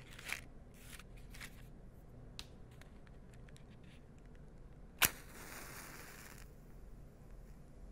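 Low hum of an old recording with scattered clicks and knocks, and one sharp click about five seconds in followed by about a second of hiss.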